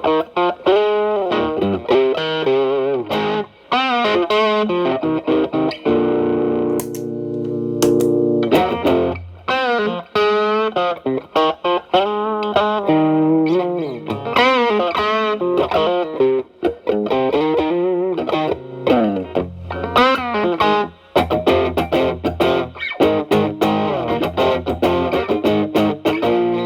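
Electric guitar, a Fender Telecaster, through a Xotic BB overdrive pedal at gain 9 into a Marshall Valvestate amp's clean channel, playing mildly distorted blues lead lines with string bends and vibrato. A held chord rings about six seconds in, and another near the end.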